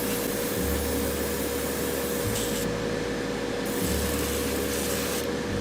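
Ultrasonic cleaner running: a steady electric hum with a hiss, and a low rumble that comes and goes every second or two.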